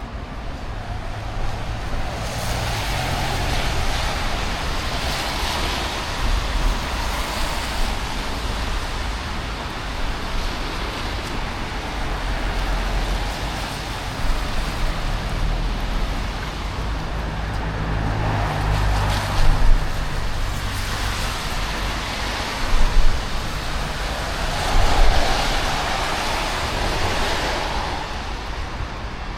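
Road traffic going past on a wet road, with the hiss of several vehicles swelling up and fading away in turn over a low rumble.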